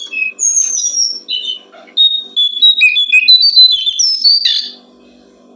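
A brown jongkongan (jongkongan coklat) songbird singing a fast, varied string of high chirps and whistles that stops about five seconds in, over a faint low hum.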